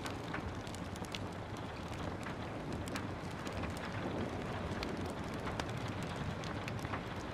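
Steady rain hiss under the frequent, irregular crackles and pops of a wood fire burning in a fireplace.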